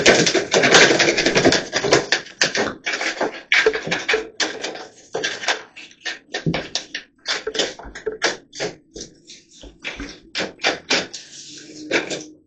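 A hand tool scraping against plaster in quick, irregular strokes, packed close together for the first couple of seconds and then more spaced out.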